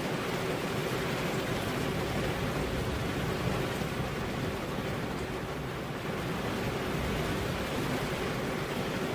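Steady rain, heard as a dense, even hiss that does not change.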